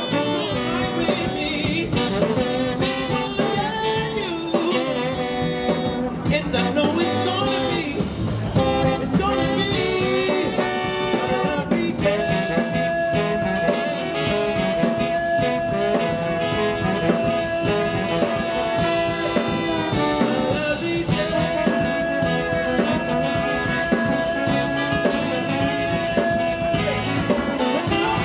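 Live brass band playing an upbeat number, with long held horn notes through the second half.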